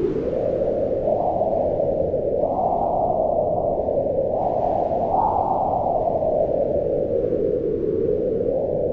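Howling wind: a steady, low rushing whose pitch rises and falls in slow swells as gusts come and go.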